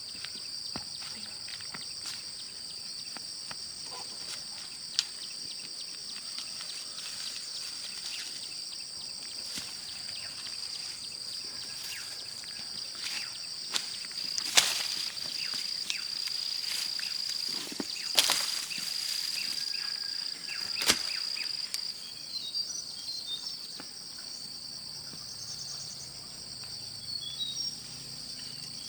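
Insects droning in one steady high tone, with a few sharp knocks or snaps scattered through, the loudest about halfway. Short bird chirps come in over the last few seconds.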